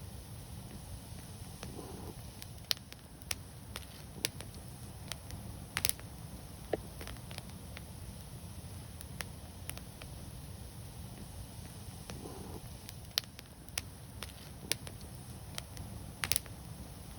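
Wood fire crackling: irregular sharp snaps and pops over a steady low rumble, with a louder cluster of pops about six seconds in and another near the end.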